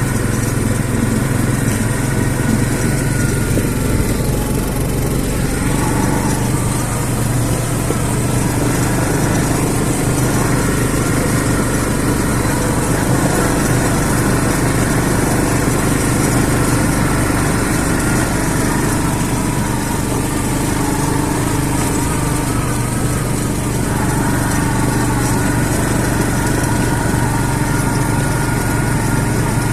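CFMoto CF500 ATV's single-cylinder engine running steadily, its pitch shifting slightly now and then.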